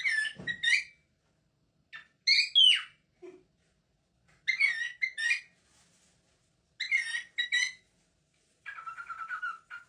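A parrot calling in short, high-pitched whistled notes, in groups of two or three about every two seconds, then a quicker run of short repeated notes near the end.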